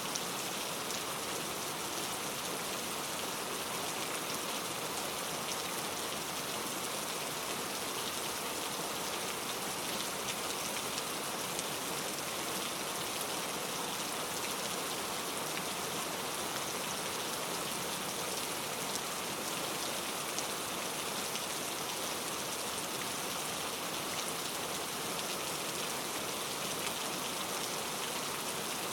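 Steady rain falling, a dense even hiss of drops with fine individual drip ticks throughout, and no thunder.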